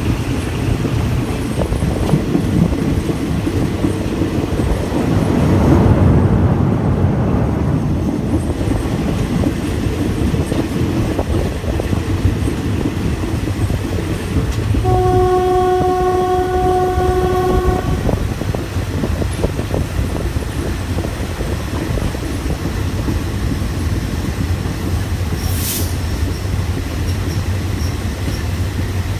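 A moving passenger train heard from aboard: steady rumble and rattle of the wheels on the rails, swelling for a couple of seconds early on. About halfway through, a locomotive horn sounds one long note for about three seconds.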